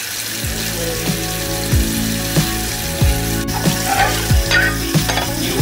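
Food sizzling as it fries in a pan: a steady crackling hiss. Background music with a steady beat plays over it.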